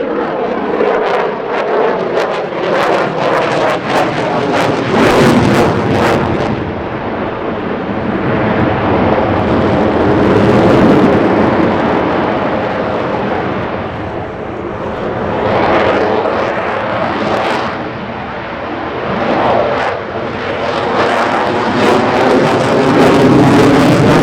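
Jet aircraft flying past at an airshow, the roar of their engines swelling and fading in several waves with a sweeping, phasing tone.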